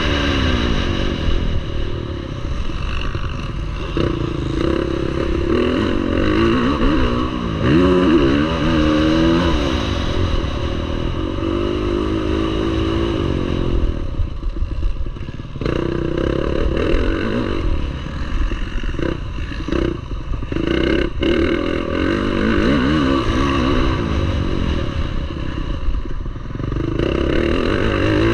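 Motocross bike engine revving up and falling back again and again as the throttle is opened and shut, with some clatter. The engine drops off briefly twice near the middle, with a few sharp knocks.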